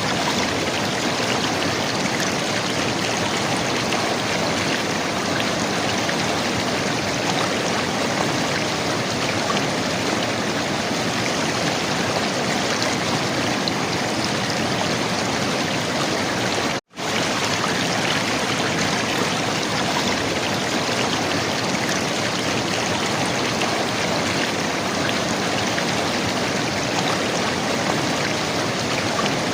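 River water flowing and gurgling in a steady, even rush. About seventeen seconds in, the sound cuts out for an instant and comes straight back.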